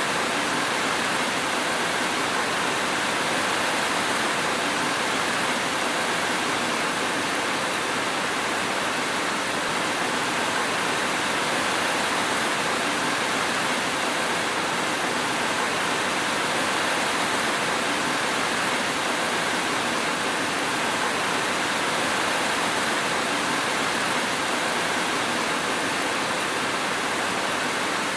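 Steady, even rain: a continuous hiss of falling rain with no thunder.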